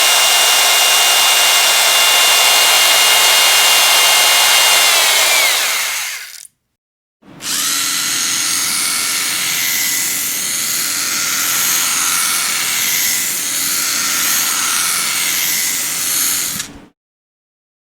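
Electric power drill running at full speed, its whine sagging in pitch as it winds down and stops about six seconds in. It starts again a moment later, runs for about nine seconds, then cuts off.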